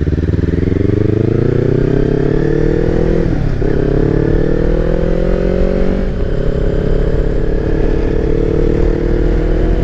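Kawasaki Versys X300's parallel-twin engine accelerating through the gears: the engine note rises, breaks briefly for a gear change about three and a half seconds in, rises again, shifts once more about six seconds in, then holds steady at cruise.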